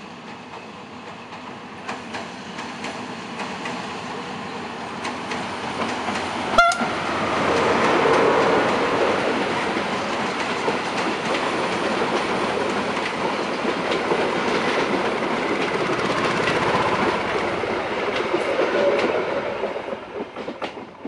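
Passenger train crossing a steel truss railway bridge. The diesel locomotive and its wheels grow louder as it approaches, then the coaches pass close by with a steady rumble and clickety-clack of wheels on the rails, dropping away near the end. A brief sharp sound stands out about six and a half seconds in.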